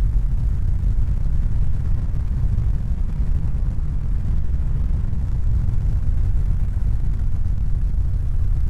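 A steady, loud low rumble of noise with no distinct tone, pitch change or separate impacts.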